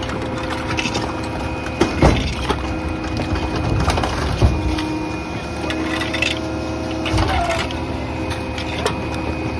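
Pak-Mor rear-loader garbage truck compacting bulky debris: wood cracking and splintering under the packer blade, with a few sharp cracks over the steady hum of the truck's engine and hydraulics.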